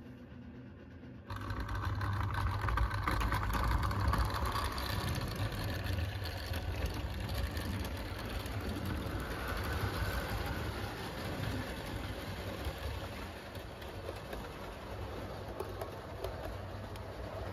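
Trains running past: a steady rumble with a low hum that starts abruptly about a second in and carries on evenly.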